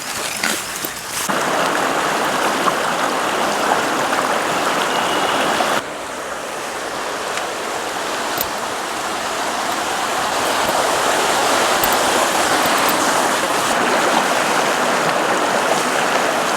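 River water rushing over stones, a steady dense rush that dips briefly about six seconds in and then builds again.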